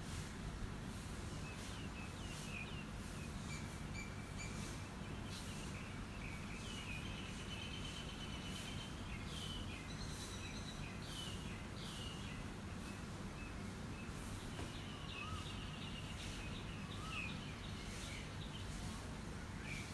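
Small birds chirping over and over, with a few longer trilled calls, over a steady low background rumble of outdoor noise.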